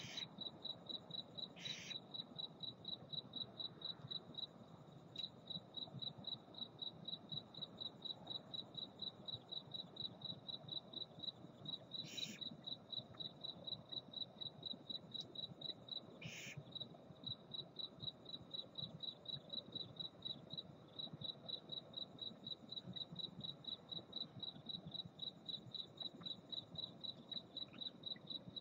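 A cricket chirping in a steady, rapid, evenly spaced high pulse. Four short hissing screeches from the barn owls cut across it: at the start, about two seconds in, and twice more around the middle.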